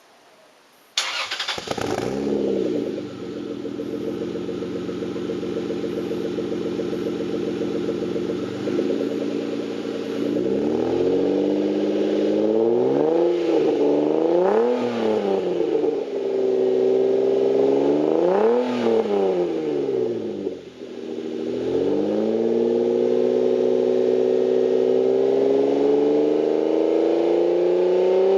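Toyota Supra's naturally aspirated 3.0-litre straight-six through a Greddy Trust Performance Extreme II cat-back exhaust, started about a second in, flaring and settling into a steady idle. From about a third of the way in it is revved in several blips, then its revs climb slowly and steadily near the end, with a deep tone that is not too loud and not farty.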